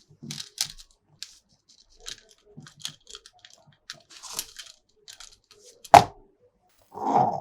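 Plastic toy parts and packaging being handled, with scattered clicks, crackles and crinkling and one loud sharp knock about six seconds in.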